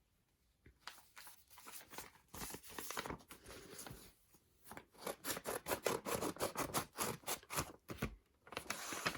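Packaging around a photocard being handled and opened: quick irregular crinkling, rustling and scratching, sparse at first and busier through the second half.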